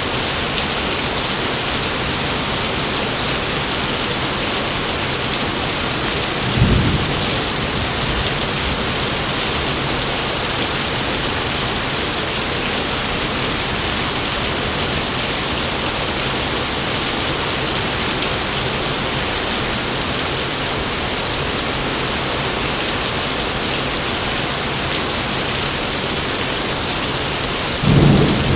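Heavy rain falling steadily, with a short low thunderclap about six seconds in and a louder rumble of thunder starting near the end.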